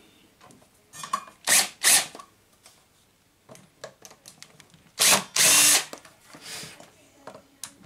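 Power drill/driver on a long extension backing out the miter saw's housing screws in several short bursts, the longest nearly a second, with small clicks of the bit and screws between the bursts.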